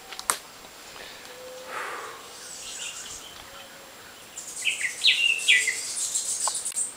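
Several birds chirping and calling in the trees, busiest and loudest over the second half, with quick chirps that glide in pitch and a fast, high trill. A single sharp click just after the start.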